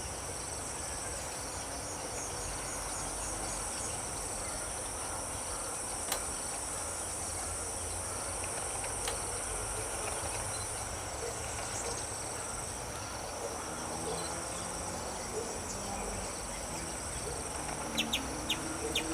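Steady chorus of insects chirring, with a short run of quick chirps near the start and a few sharp clicks near the end.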